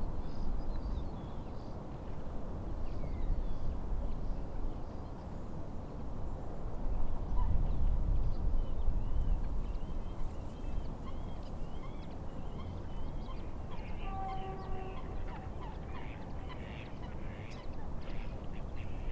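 Steady rush of wind and lake waves, with small birds chirping in the second half. About two-thirds of the way in, a waterbird gives a short honking call.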